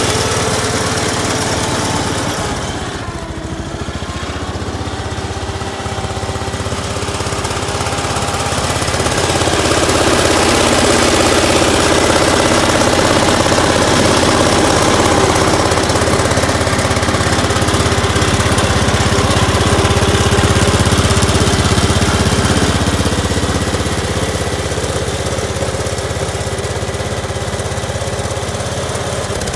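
Case Ingersoll garden tractor engine running steadily, dipping in level a few seconds in and getting louder from about ten seconds in.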